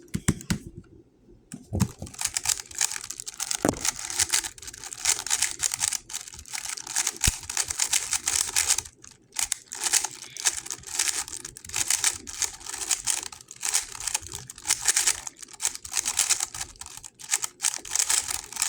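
GAN 11 M Pro magnetic speedcube being turned at speed during a timed solve: a dense, rapid clatter of layer turns, with a few short pauses between bursts.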